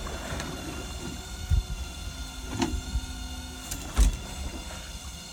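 Steady mechanical hum of a fishing boat's engine, broken by a few low knocks and sharp clicks, the loudest about four seconds in.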